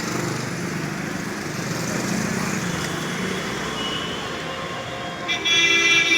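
Road traffic passing, with an engine drone that rises and fades, and a vehicle horn sounding for about a second near the end.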